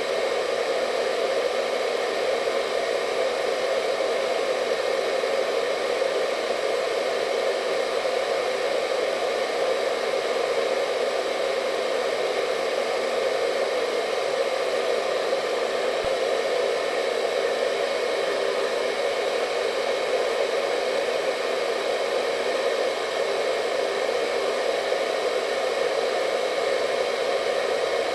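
Hair dryer running continuously: a steady, even rushing of air with a hum, unchanging throughout.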